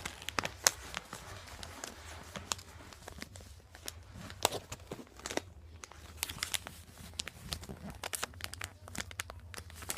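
Sheet of paper being folded and creased by hand: irregular crinkling and sharp crackles as the paper is bent over and pressed flat.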